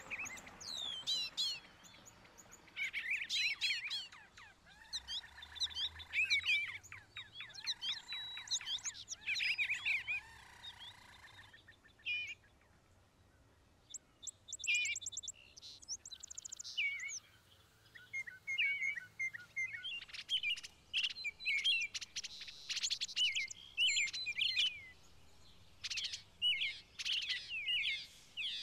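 Songbirds chirping and calling in quick, overlapping runs of short notes, with a lull of a couple of seconds around the middle.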